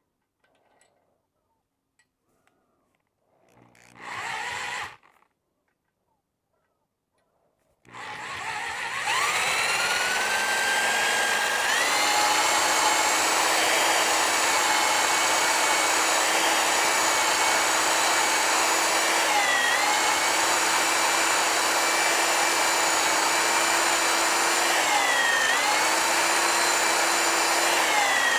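Power drill driving a stone cylinder hone in an outboard cylinder. A short burst comes just after four seconds in. Near eight seconds the drill winds up to speed and runs steadily, its whine dipping briefly in pitch a few times as the hone takes load.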